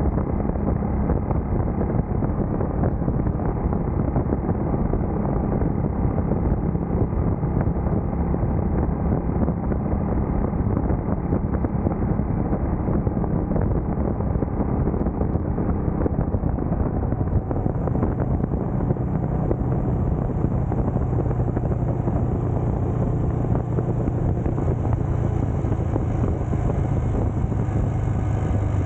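Motorcycle engine running steadily under way, with wind buffeting the microphone; about two-thirds of the way through, the engine note settles lower.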